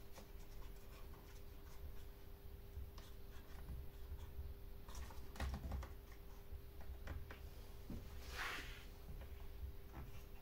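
Light clicks, taps and handling noises from plastic parts of a chainsaw being worked on by hand, with a brief scrape or rustle about eight and a half seconds in, over a faint steady hum.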